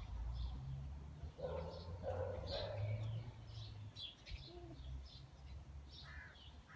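Small birds chirping in short high calls, again and again, over a low rumble that is loudest in the first half.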